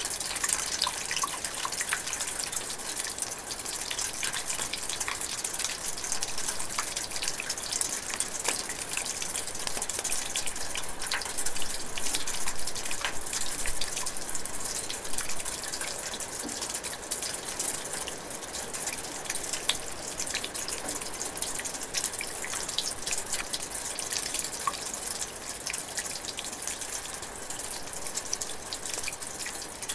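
Light rain drizzling in a forest, with many close raindrops dripping and ticking over a steady high hiss of rainfall.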